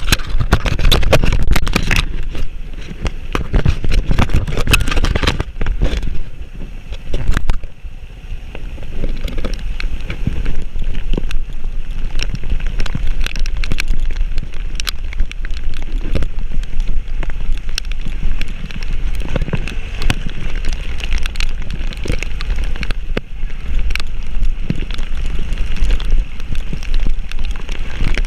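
A vehicle driving up a rough mountain track in heavy rain: a steady low rumble with many knocks, rattles and crackles as it jolts over the bumps.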